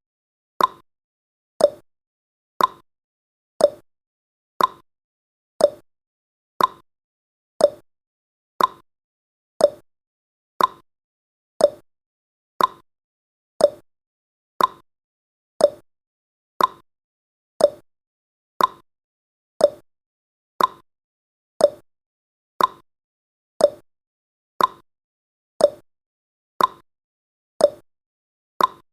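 Clock ticking sound effect, one tick a second, alternating a higher tick and a lower tock.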